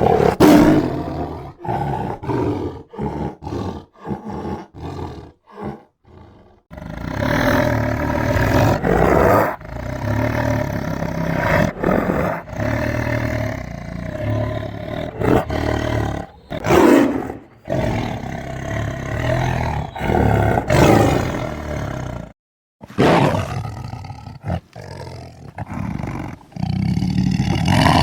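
Tiger roaring. It starts as a quick run of short, clipped roars, then turns into long continuous roaring and snarling with two louder roars in the middle, broken once by a brief silent gap late on.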